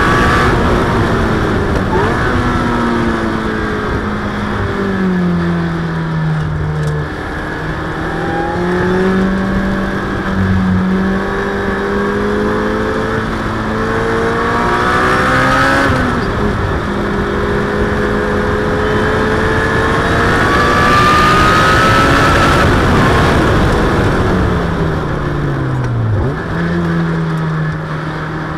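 Supercharged Ariel Atom's four-cylinder engine heard from on board, driven hard at high revs: the pitch climbs and drops back sharply at each gear change, then falls away steeply under braking and downshifting near the end before running steadily at lower revs.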